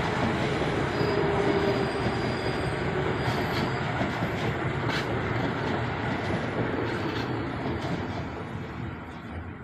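KRL commuter electric train, an ex-Tokyo Metro 6000-series unit, running through the station with steady wheel and rail noise and a faint wheel squeal about a second in. The sound dies away over the last couple of seconds as the train moves off.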